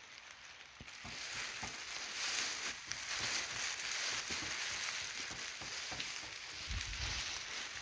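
Steady rain falling: an even hiss with many small drop ticks, growing louder about a second in.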